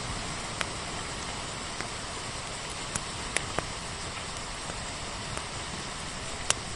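Steady rain hiss with a wood fire crackling over it: a handful of sharp pops scattered through, the loudest near the end.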